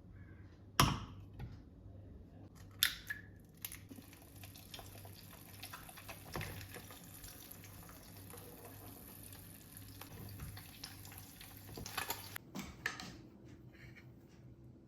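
A sharp knock, then water running steadily from a tap for about eight seconds, ending with a few clicks and knocks.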